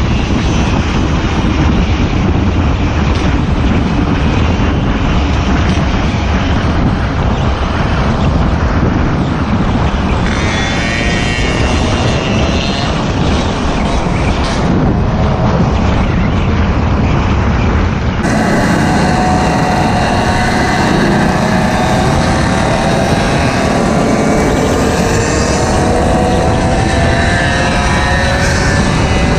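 Small mini bike and Goped engines running during a ride, under heavy wind noise on the microphone. After about 18 seconds the engine note is clearer, rising and falling as the throttle changes.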